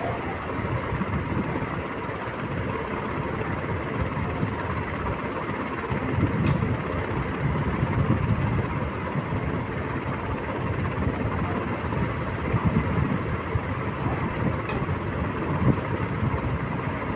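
Crompton electric fan running with a steady low rumble and noise, the abnormal running noise complained of as the fan's sound issue; two faint ticks come about eight seconds apart.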